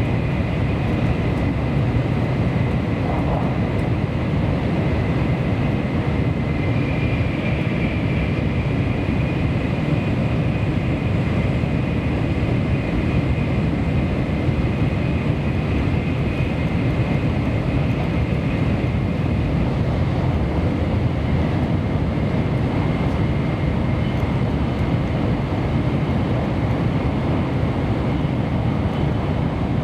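Kyushu Shinkansen bullet train running at speed, heard inside the passenger car: a steady low rumble and rush of running noise with a faint high whine over it.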